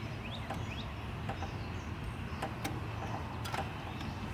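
Sparse light clicks and taps, as of small parts being handled, over a steady low hum. A brief chirp comes near the start.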